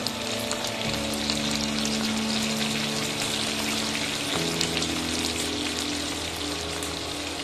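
Prawns and ground spice paste frying in oil in a wok: a steady sizzle with scattered crackles. Soft background music of held notes plays under it, changing chord about a second in and again just past four seconds.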